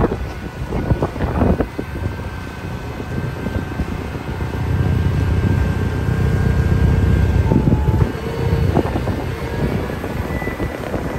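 Strong blizzard wind buffeting the microphone as a heavy low rumble, heaviest from about five to eight seconds in.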